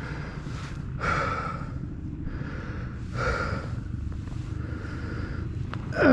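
Kawasaki KLX230R dirt bike's single-cylinder engine running low and steady, under a rider's heavy breathing, one breath about every two seconds.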